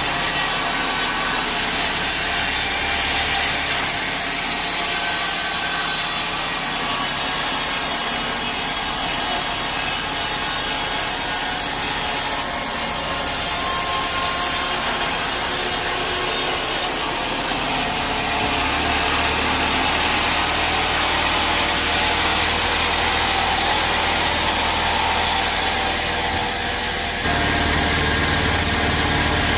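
Sawmill bandsaw blade cutting lengthwise through a teak log: a continuous, dense rasping of the blade in the wood. The tone shifts about halfway through and again near the end.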